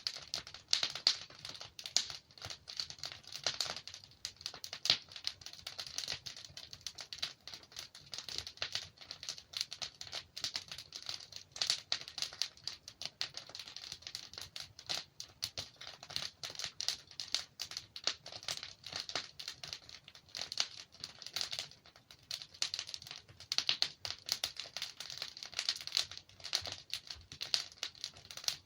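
Wood fire burning in a fireplace: dense, irregular crackling with sharper pops scattered throughout.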